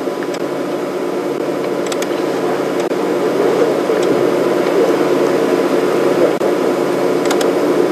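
Safari vehicle's engine running steadily, slowly growing louder.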